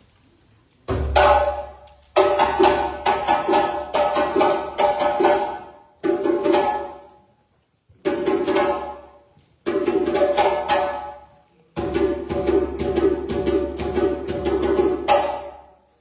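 Djembe played by hand in fast phrases of ringing tones and sharp slaps. Each phrase starts abruptly and dies away, with short breaks between phrases.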